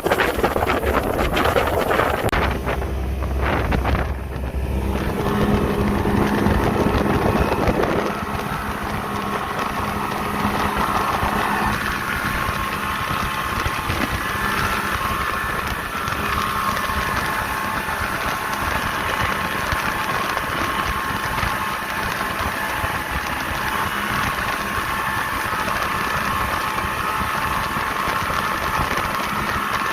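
Speedboat engine running steadily, with wind rushing over the microphone in the first few seconds.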